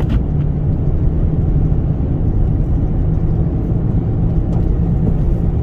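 Steady low rumble of road and wind noise inside a Toyota Sienna minivan's cabin, driving slowly through a snowstorm.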